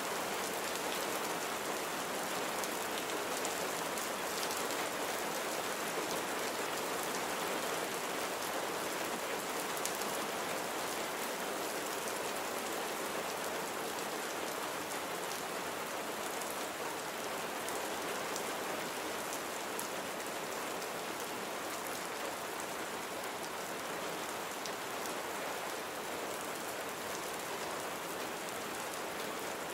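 Steady rain falling, an even hiss of rain with many fine drop ticks on a surface, unchanging throughout.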